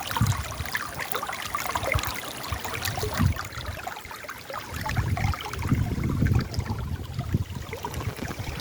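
River water flowing and splashing over rocks, a steady trickling and bubbling with many small splashes. Gusts of low rumble come and go, strongest from about five seconds in.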